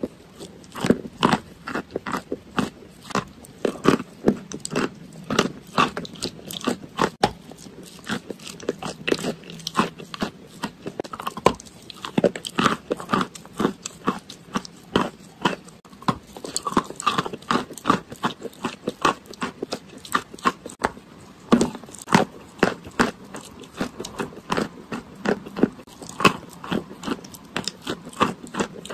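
Close-up crunching and chewing of a crumbly white chalk-like block: sharp, dry crunches, roughly two to three a second, with the sounds of chewing in between.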